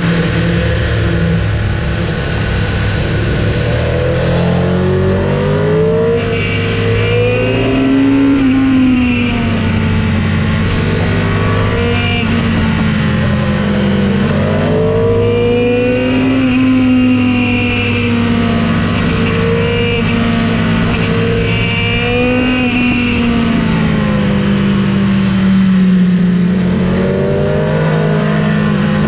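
Sport motorcycle engine heard from on board while riding, its revs rising and falling again and again through the bends over a steady rush of noise.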